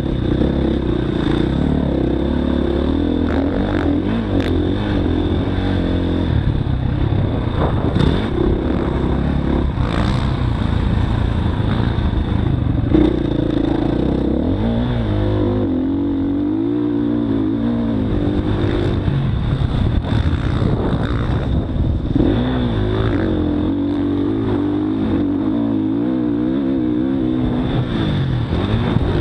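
Motocross dirt bike engine revving up and down and shifting as it is ridden round a track, heard from an onboard action camera.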